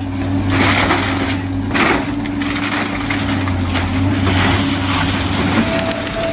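Heavy shredding machine running with a steady low drone while it crushes and splinters material. Loud bursts of cracking come in the first two seconds and again about four seconds in.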